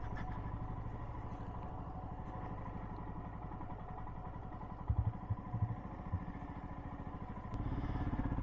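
Motorcycle engine running at low revs with a steady pulse while riding slowly, with a few short knocks about five seconds in; the engine gets louder near the end.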